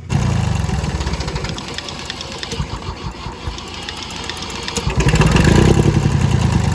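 Engine running with a rapid, even firing beat that comes in suddenly at the start; about five seconds in it gets louder and fuller, as when the throttle is opened.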